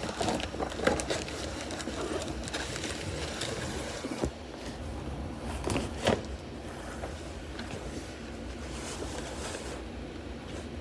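Firework shells and their cardboard packaging being handled: a few soft knocks and rustles over a steady low background noise.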